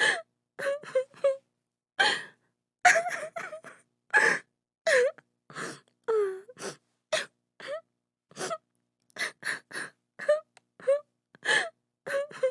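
A woman sobbing in many short, gasping bursts, with brief wailing cries that bend up and down in pitch, separated by silent gaps.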